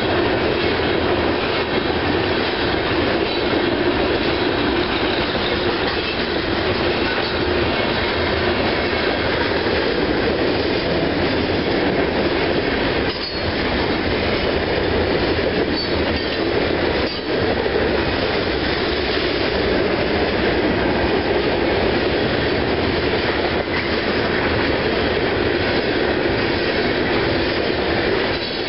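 Coal train's hopper cars rolling steadily past, steel wheels on rail making a continuous loud rumble with faint high wheel squeal at times.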